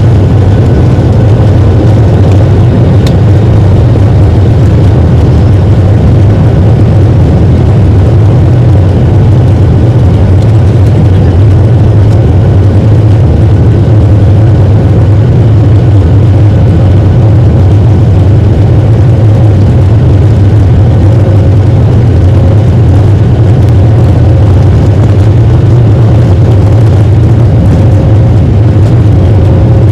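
Boeing 737-900's CFM56 turbofan engines running at takeoff thrust, heard from inside the passenger cabin as a loud, steady drone with a deep rumble.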